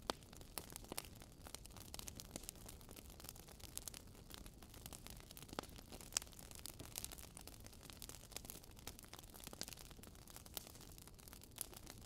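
Large wood bonfire crackling, with irregular sharp pops and snaps over a faint hiss of burning.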